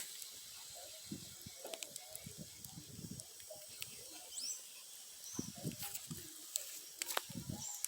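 Wood bonfire burning faintly, with scattered sharp crackles and pops.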